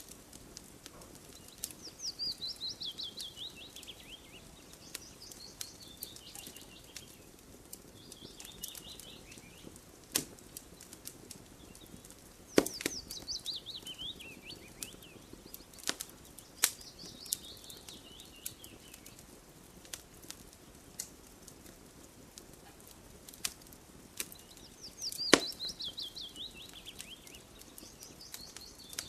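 Campfire crackling with scattered sharp pops, a few of them loud. A bird sings again and again, each song a quick run of high notes falling in pitch over about two seconds.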